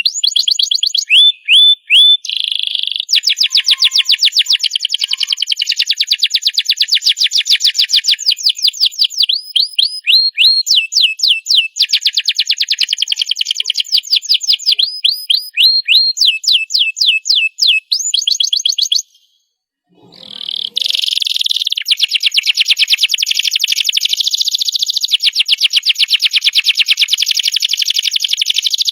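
Domestic canary singing a long, vigorous song of fast trills and rolls, with runs of repeated swooping notes. The song breaks off for about a second two-thirds of the way through, then resumes with a dense, rapid trill.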